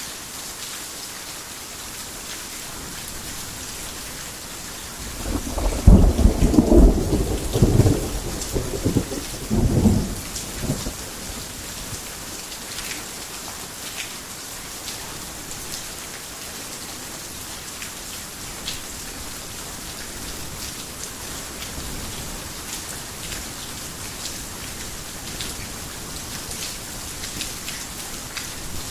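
Steady heavy rain falling, with a clap of thunder about five seconds in that rumbles in several swells for about six seconds before fading back under the rain; scattered louder drops tick through the rest.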